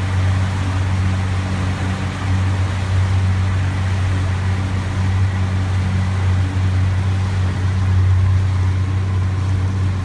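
Motorboat engine running at a steady speed, a constant low hum under a steady rush of water and wind noise.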